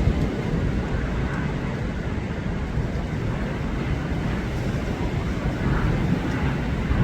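Strong, gusty storm wind blowing steadily, heard as a continuous low rumble of noise.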